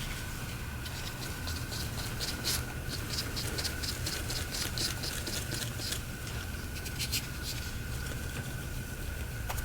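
Quick scratching and rubbing strokes, about three a second, from hands working over a phone on the bench, thinning to a few scattered clicks later. A steady electrical hum runs underneath.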